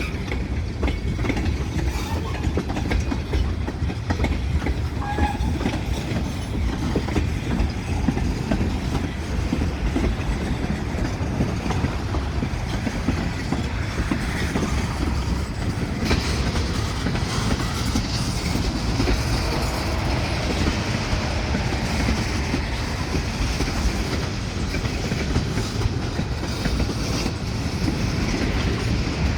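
A train's cars rolling past on the rails, their steel wheels clattering steadily over a continuous rumble. The horn is not sounding.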